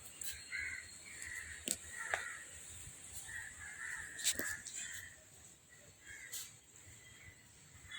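Birds calling repeatedly in short, harsh calls, with a few sharp clicks in between.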